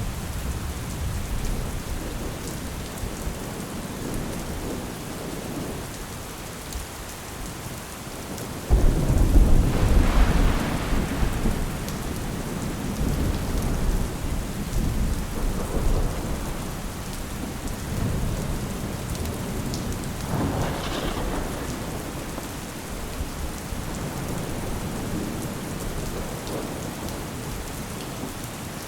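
Steady rain with rolls of thunder: a sudden, loud low thunder rumble about a third of the way in that swells for a few seconds and dies away, then a fainter rumble later on.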